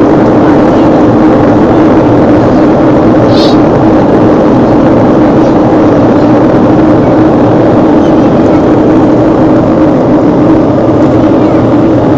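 Boeing jet airliner's engines running with a loud, steady drone during the flight. A short high-pitched chirp sounds once, about three seconds in.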